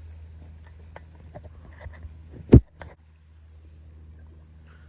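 Steady high-pitched drone of insects such as crickets, with scattered small clicks and one short, loud thump about halfway through.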